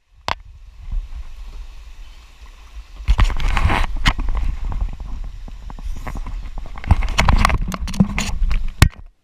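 Floodwater splashing and rushing around a kayak, with irregular splashes and knocks from paddling. It is loudest about three seconds in and again near the end.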